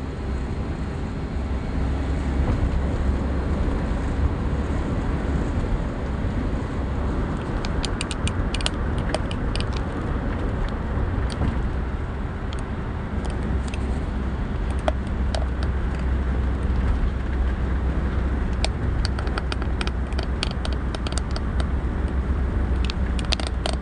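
A vehicle driving steadily at highway speed: continuous low road and engine rumble, with scattered light clicks or rattles from about a third of the way in.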